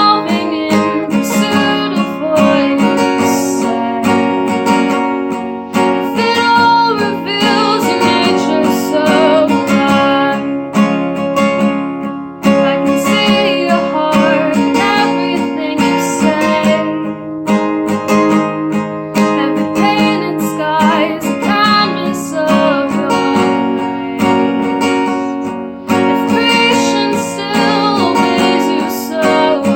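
Music led by strummed acoustic guitar, with a singing voice.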